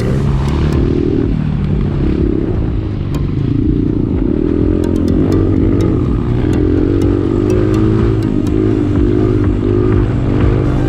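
Dirt bike engine running under changing throttle, its pitch wavering up and down, with scattered sharp clicks and clatter from about five seconds in.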